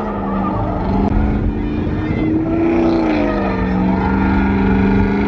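A vehicle engine running at sustained revs, its pitch held steady, then rising and falling back briefly about three seconds in before settling lower.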